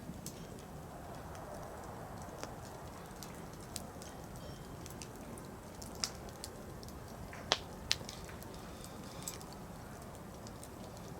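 Firewood burning in a campfire: a low steady hiss with scattered sharp crackles and pops, the loudest two coming close together about seven and a half seconds in.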